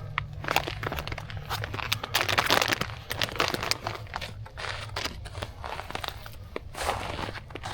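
Irregular crinkling and crunching as fire-starting material is crumpled and handled while laying a fire, thickest about two to three seconds in.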